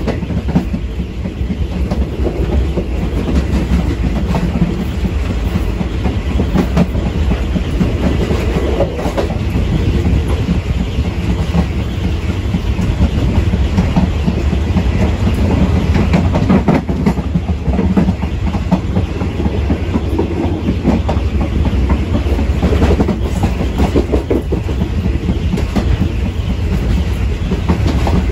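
Passenger train running along the track, heard from the rear of the last coach: a steady low rumble with the wheels clicking over the rail joints.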